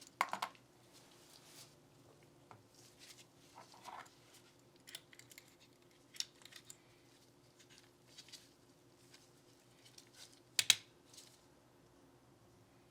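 Hands working on a Glock 19 Gen 5 pistol and its small parts: scattered light clicks and rustles, with a sharper cluster of clicks at the start and a louder double click about ten and a half seconds in.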